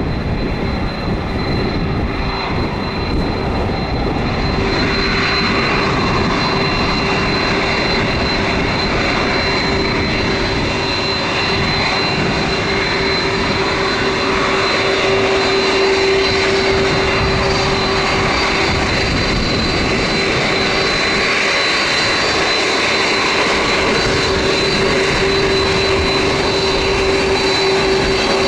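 JetBlue Airbus A321's jet engines running: a loud, steady roar with a constant high whine over it, growing stronger and brighter about five seconds in.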